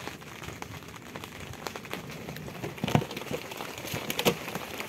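Rain starting to fall again in a thunderstorm: scattered drops tick and patter on surfaces over a soft hiss, with a few sharper, louder hits about three and four seconds in.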